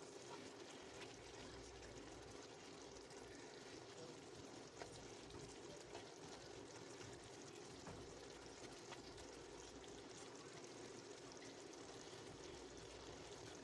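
Faint, steady simmering and bubbling from pots on the stove: a thickening sauce and a lidded pot of boiling water, with a few soft knocks.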